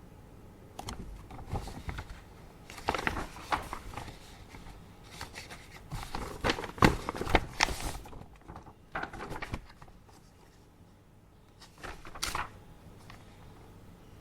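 Sheets of paper being handled and rustled in irregular bursts for most of the first nine seconds and again briefly near the end, over a faint steady hum.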